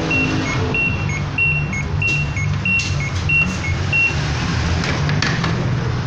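LG washing machine control panel beeping, alternating between a higher and a slightly lower tone about six times, then stopping about four seconds in. A steady low sound runs underneath.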